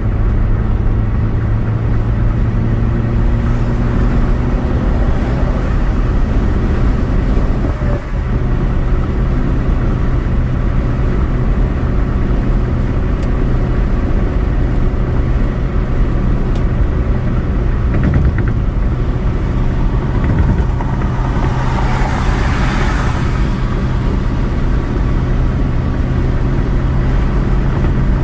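Steady road and engine drone inside a car cruising on the highway, with a brief rushing swell of noise about three-quarters of the way through.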